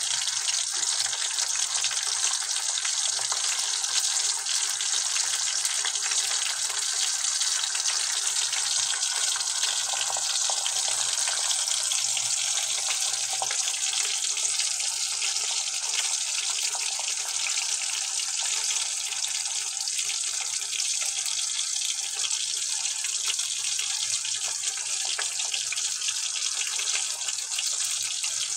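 Slices of pork luncheon meat frying in hot oil in a pan: a steady sizzling hiss with fine crackles throughout.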